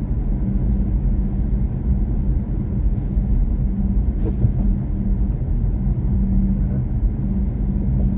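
BMW i4 M50 electric car being driven: steady low road and tyre rumble with a steady hum.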